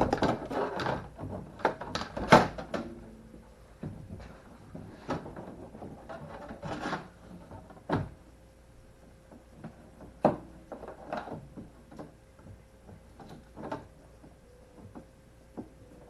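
Hand work with tools and parts: irregular knocks, clicks and rubbing, with the sharpest knocks about two seconds in and again about ten seconds in.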